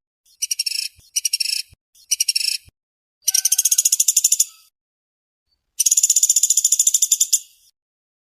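Woodpecker (pelatuk sampit, pelatuk beras) giving fast, closely packed rattling call trills of about a dozen high notes a second. There are three short bursts in the first three seconds, then two longer trills of a second and a half or more.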